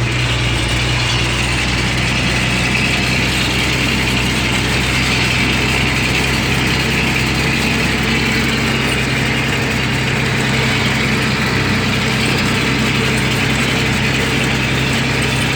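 Bedford truck engine running steadily, a low even drone with no change in pitch or level.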